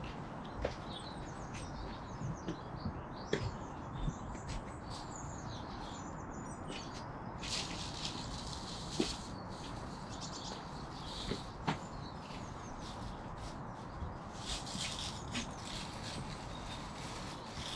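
Small birds chirping and twittering over steady background noise, with a few light knocks now and then.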